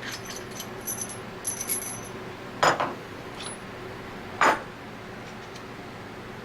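Small metal parts and tools clinking lightly, then two sharp knocks about two seconds apart, over a faint steady hum.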